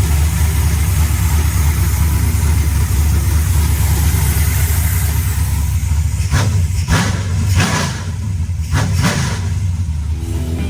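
Chevrolet S10 pickup's swapped-in 6.0-litre LS V8 running with a steady low rumble, then four quick throttle blips in the second half.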